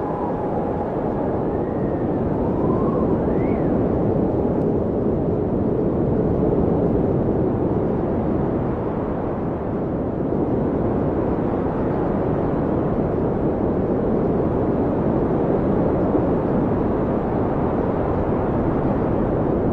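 Blizzard wind howling: a steady rushing of wind-driven snow, with a few brief whistling rises and falls in pitch in the first few seconds.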